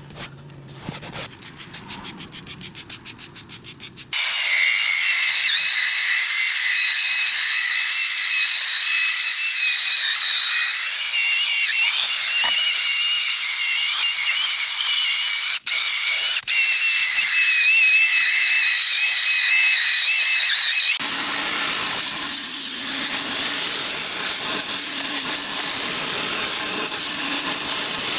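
A high-pressure cleaning jet hissing loudly, with a few whistling tones in it. It starts about four seconds in after a fast rattling buzz, cuts out for a moment twice, and turns rougher and fuller near the end.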